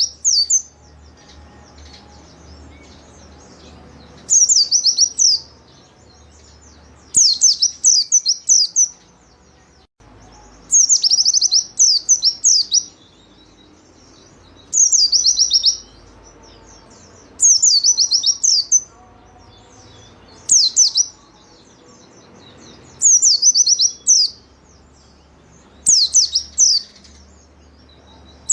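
White-eye (pleci) singing energetically: about nine short bursts of rapid, high chirping notes, each about a second long and coming every three seconds or so, over a faint low hum.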